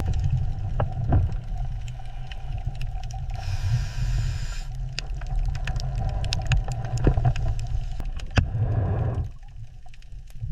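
Low, steady rumble with many sharp scattered clicks, and a burst of hiss lasting about a second from three and a half seconds in; the rumble drops away briefly near the end.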